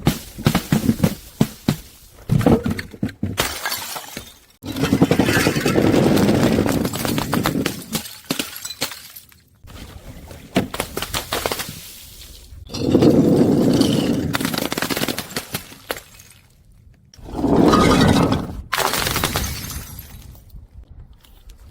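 Glass bottles breaking and being crushed: a run of sharp cracks and snaps, then three long spells of dense crunching and grinding glass, each lasting a few seconds, with scattered crackling in between.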